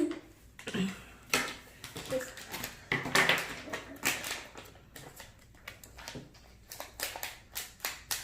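Irregular light clicks and rustles of plastic packaging and small plastic toys being handled and opened, with a few brief murmurs of voice.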